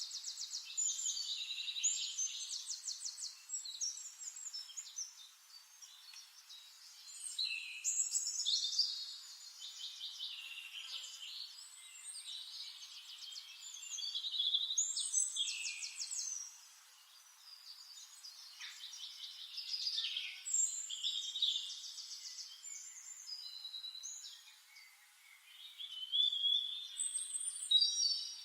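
Birdsong: a bird singing repeated warbling phrases with rapid trills, a new phrase every few seconds.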